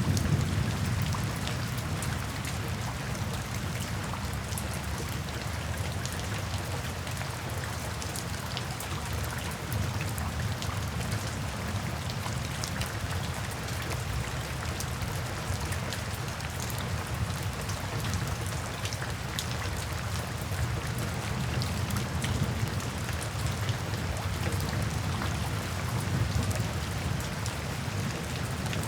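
Steady rain falling, with close drops ticking on a surface and a low rumble of distant thunder underneath, a little stronger at the very start.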